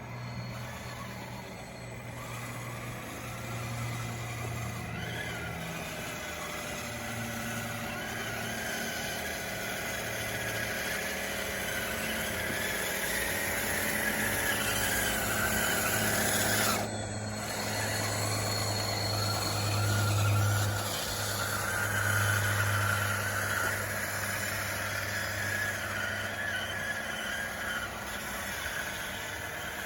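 DXR2 RC bulldozer working: its small electric motors and gears whine, the pitch slowly rising and falling with load, over a steady low hum.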